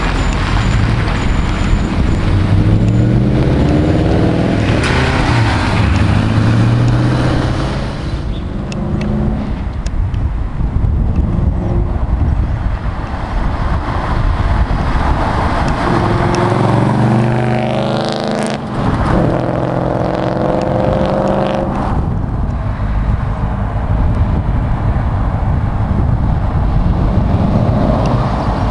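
Audi S4 with an aftermarket stainless steel exhaust, its engine note climbing in pitch through two long accelerations, the first about a second in and the second in the middle, with steadier running between and after.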